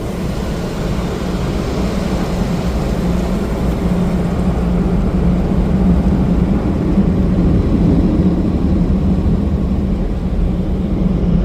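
Express tunnel car wash machinery heard from inside the car's cabin: steady, loud mechanical noise with a low hum, growing slowly louder.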